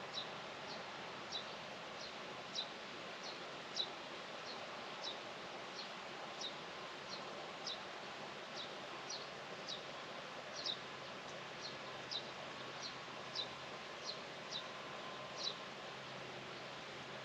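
A small bird giving short, sharp chirps that slide downward, repeated one or two times a second at uneven intervals, over a steady outdoor hiss.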